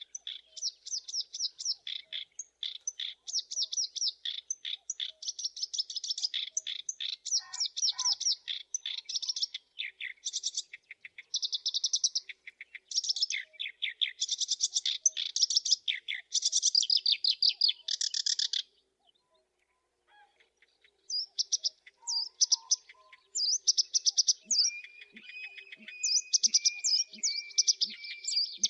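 Black-browed reed warbler singing: long runs of rapid, harsh chirps and chattering phrases. The song breaks off for about two seconds two-thirds of the way through, then resumes, and a thin steady high note joins it near the end.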